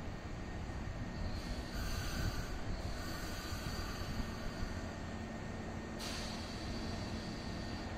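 Kintetsu Minami-Osaka Line electric train at the platform, with a steady low rumble. Two bursts of hiss come over it, one about a second in and another sharper one at about six seconds.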